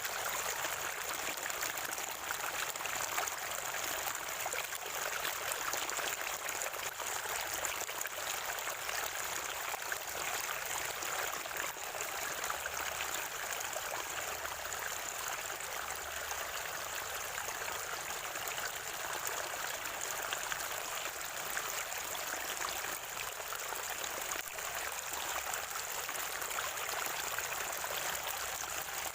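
Natural spring water flowing and gurgling in a steady stream.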